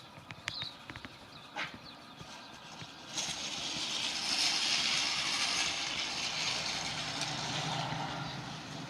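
A vehicle going by: a broad hiss that comes up about three seconds in, peaks soon after and slowly fades, with a low hum under it near the end. Before it come a few light ticks and taps.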